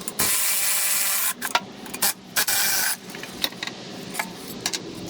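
Hand-tool work on rusted, seized bolts: three bursts of rasping noise in the first three seconds, then scattered sharp metal clicks.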